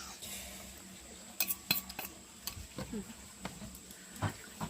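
Spoons and chopsticks clinking and tapping against bowls while people eat, a few scattered light clicks.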